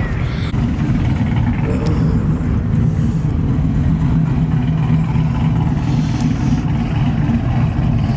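A truck engine running steadily with a deep, even rumble.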